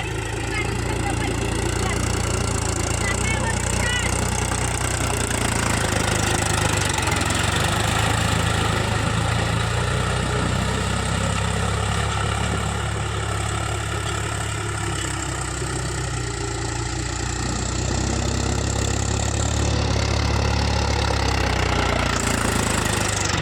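Mahindra tractor's diesel engine running steadily at a constant speed.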